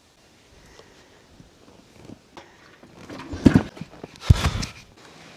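Two kicks on the kickstarter of a 1973 Yamaha TX500 parallel twin, a second apart near the end, each a loud thumping rush as the engine is turned over with the choke fully on.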